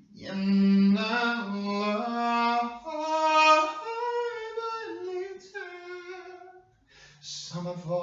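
A single voice singing slow, long-held notes without accompaniment, stepping from pitch to pitch, with a short pause near the end before it starts again.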